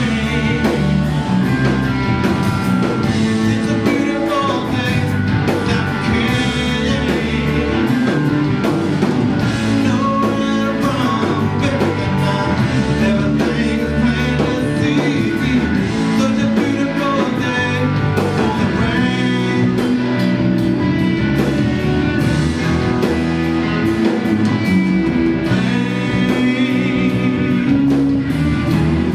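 A live blues-rock band playing: guitar, bass and drums, with a sung vocal over them.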